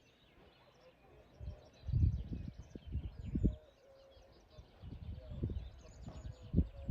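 Small birds chirping repeatedly, with irregular low rumbles coming and going underneath, louder in two stretches.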